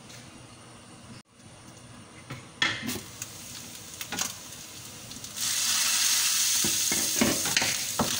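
Ground pork with onion and garlic frying in a nonstick pan. A few knocks of the glass lid come first, then from about five seconds in a loud, steady sizzle, with a spatula stirring and scraping the pan.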